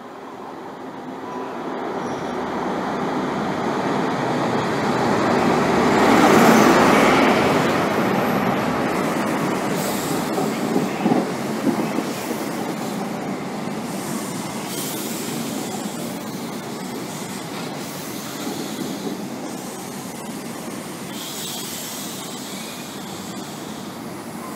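CrossCountry InterCity 125 (HST) running into the platform. The Class 43 diesel power car's engine noise swells to its loudest about six seconds in as it goes by. The coaches then roll past with steady wheel-on-rail noise and a few sharp clicks around eleven to twelve seconds in, slowly fading.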